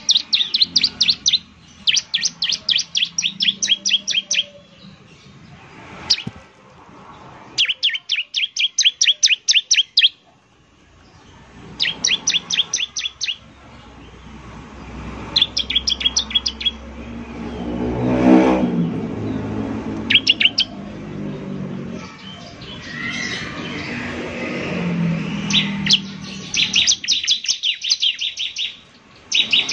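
Bar-winged prinia (ciblek) calling in repeated bursts of rapid, sharp, high chip notes, each burst lasting a second or two with pauses between. Partway through, a low rumble swells and fades beneath the calls.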